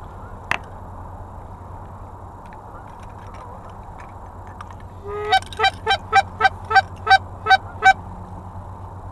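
A run of about ten short, evenly spaced honking calls, about three a second, starting about five seconds in, over a steady low hum. A single sharp click comes about half a second in.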